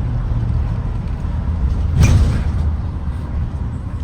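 Low steady rumble of a Blue Bird Vision propane school bus running, with a single short knock about two seconds in.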